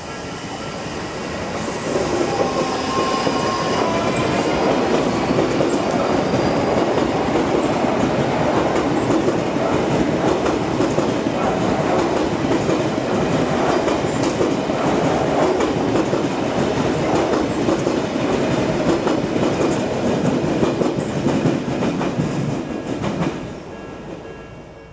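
Odakyu Line electric train passing a level crossing at speed, its wheels clattering over the rail joints. The passing is loud for about twenty seconds, then dies away quickly near the end.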